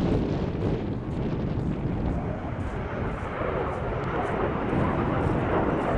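Jet engines of Blue Impulse Kawasaki T-4 jets in flight: a steady rushing jet noise that grows a little louder in the second half.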